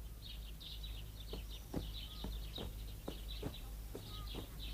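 Birds chirping in a quick series of short calls, some sweeping sharply down in pitch about two to three times a second, over a faint steady low hum.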